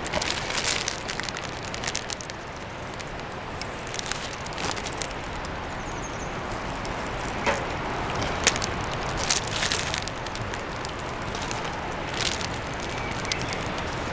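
Steady sizzling with scattered crackles and pops from beef grilling over a wood fire on a fire grill.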